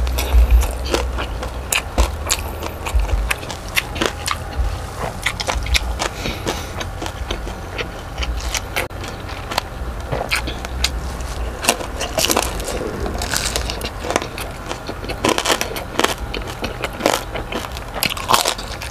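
Close-up chewing with many irregular sharp crunches of crispy deep-fried pork belly crackling (lechon kawali).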